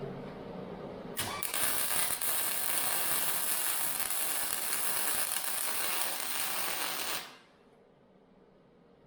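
Welding arc crackling steadily for about six seconds: it starts about a second in and stops abruptly.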